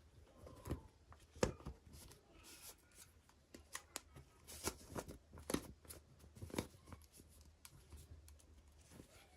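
Quiet handling of toy packaging and small plastic pieces: scattered light clicks, taps and crinkly rustles, with a handful of sharper clicks through the middle.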